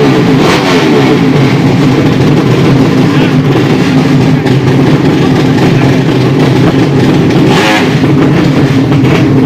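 200cc drag-racing motorcycle engines running hard at high revs, their pitch held steady with a brief swell near the end.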